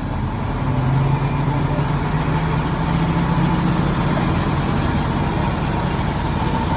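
Heavy diesel engine running steadily, growing louder about a second in and then holding.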